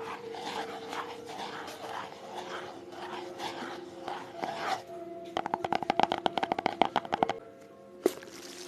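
ASMR triggers: soft scratching strokes, then a fast run of taps, about ten a second for roughly two seconds, starting a little past halfway, and one more tap near the end.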